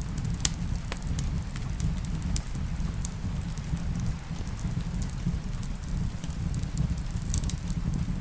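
Wood fire in a fireplace crackling, with sharp irregular pops, over a steady rumble of rain.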